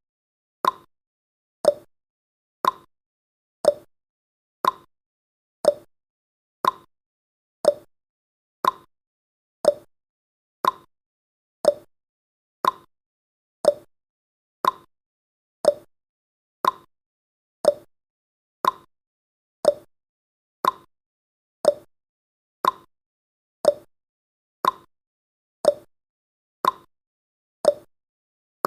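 Countdown timer's clock-tick sound effect: one sharp tick each second, alternating between a higher and a lower tick like a tick-tock.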